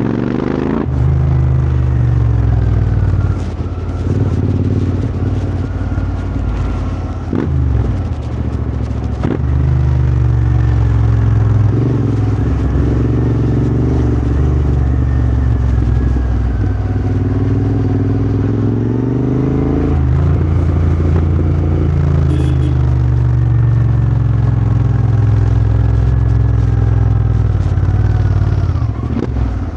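Royal Enfield GT650's 650 cc parallel-twin engine running through a Powerrage aftermarket exhaust while riding. The note rises and falls with the throttle and briefly drops off several times, as at gear changes.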